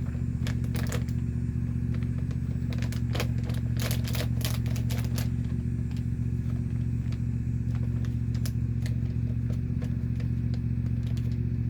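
Lawnmower engine running steadily, a constant low drone, with a run of sharp crackles and clicks during the first five seconds or so.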